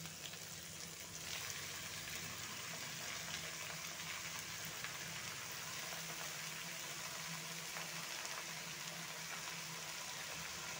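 Chopped spring onions sizzling in hot oil in a kadai with frying potato pieces: a steady frying hiss that grows louder about a second in, as more onion goes into the pan.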